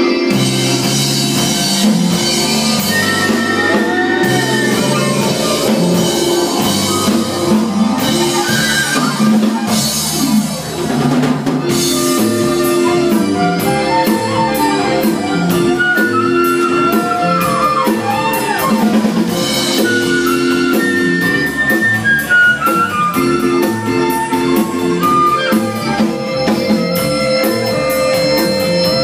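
Live rock band playing an instrumental passage with drum kit, bass and sustained keyboard and guitar lines, with no singing.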